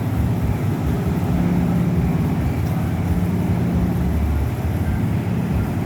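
Coffee dryer machinery running: a steady low rumble and hum that swells and eases slightly.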